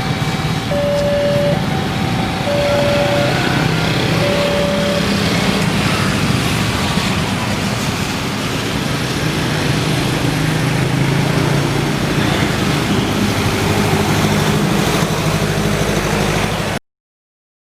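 Railway level-crossing warning alarm sounding a repeated beeping tone for the first few seconds, then stopping, over steady road-vehicle traffic noise with engines running. The sound cuts off suddenly near the end.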